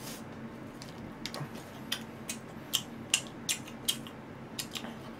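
Close-up eating sounds of a man chewing mouthfuls of jokbal (braised pig's trotters): a run of short, sharp wet clicks and smacks, roughly one every half second.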